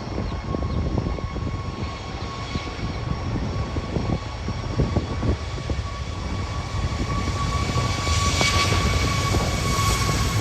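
Boeing 727-225F's three Pratt & Whitney JT8D jet engines running with a steady whine over a low rumble, growing gradually louder towards the end.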